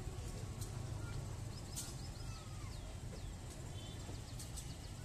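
Small birds chirping in short, high, repeated notes that sweep downward, over a steady low rumble.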